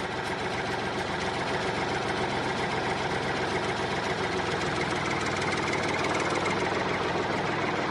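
Small motor of a homemade mini tractor running steadily at an even speed.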